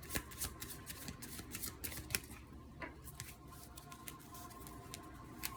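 A tarot deck being shuffled by hand: quick papery card clicks for about the first two seconds, then fewer and softer.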